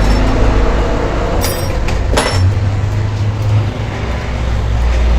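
A heavy engine running with a steady low drone that shifts in pitch about halfway through, and two sharp metal clinks between one and a half and two seconds in.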